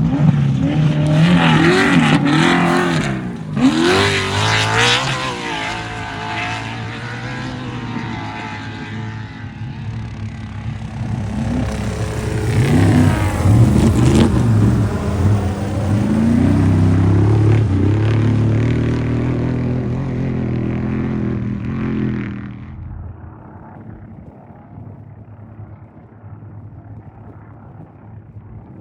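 Off-road race vehicle engines revving hard as they pass, rising and falling in pitch, then dropping sharply about 22 seconds in to a faint, distant rumble.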